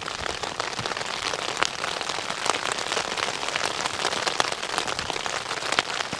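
Heavy, constant rain: a steady wash of sound peppered with the patter of many drops hitting close by.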